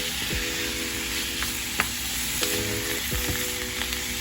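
Chicken frying in oil in a pan: a steady sizzling hiss with a few sharp ticks.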